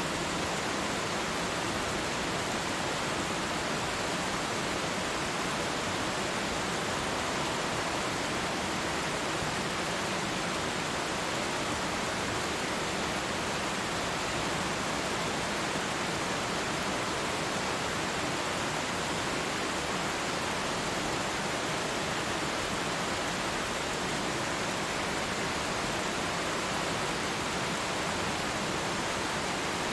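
Waterfall: a steady, even rush of falling water with no separate splashes or changes.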